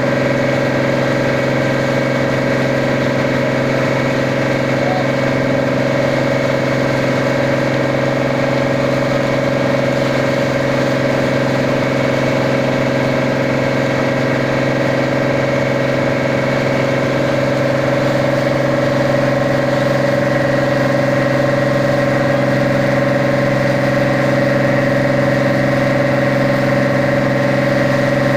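Boat engine running at a steady, unchanging speed: a loud, even drone with a strong low hum.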